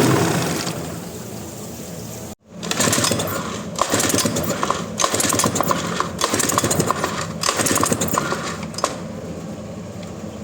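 Yamaha 40X outboard motor running and dying away in the first second, then after a break a run of irregular metallic clicks and clatter.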